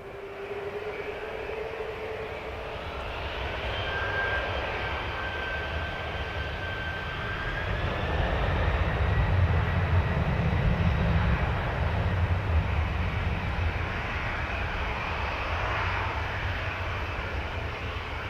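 Jet airliner passing low overhead: a high engine whine builds, and the deep rumble is loudest about halfway through, then eases off.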